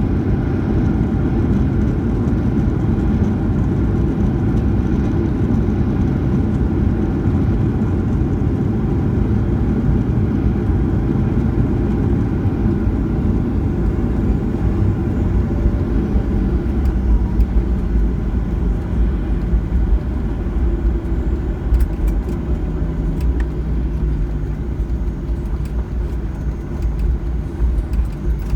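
Boeing 737-900ER airliner heard from inside the passenger cabin: a loud, steady low rumble of the jet engines and the airframe. It grows a little bumpier past the middle, with a few sharp clicks and rattles near the end.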